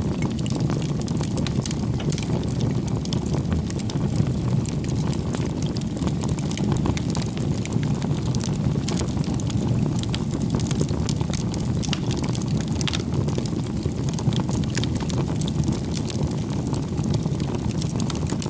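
Wood bonfire burning: a steady low rush of flames with many small crackles and pops from the burning wood throughout.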